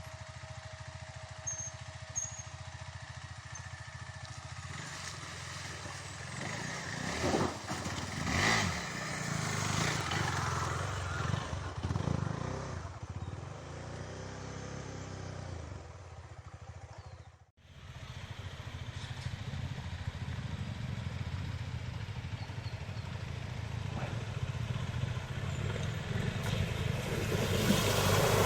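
KTM motorcycle engine running while riding a trail, the sound swelling and shifting in the middle, then steadier and growing louder near the end; it drops out abruptly for a moment about two-thirds of the way through.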